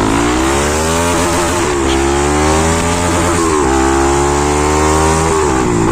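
Bajaj Pulsar NS200's single-cylinder engine revved in neutral through an aftermarket Akrapovic exhaust with the dB killer removed, loud, the revs climbing and dropping back about three times.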